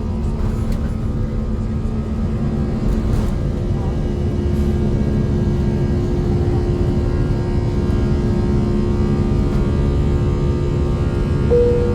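Airbus A340's four jet engines heard from inside the cabin: a loud, steady rumble with several humming tones. A higher hum takes over about four seconds in, and a short higher tone sounds near the end.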